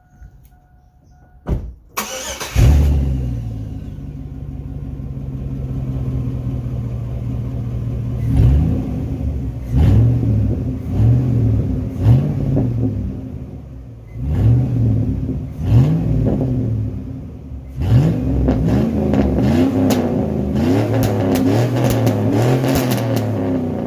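Muffler-deleted Chevy 5.3 V8 (Suburban/Tahoe) started about two seconds in with a loud flare that settles into idle, then revved in short blips, several in quick succession near the end.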